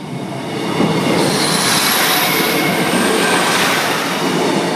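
Class 153 diesel multiple unit passing close by: engine and wheels running on the rails. It grows louder over the first second or so, stays loud as the train goes by, then eases a little near the end.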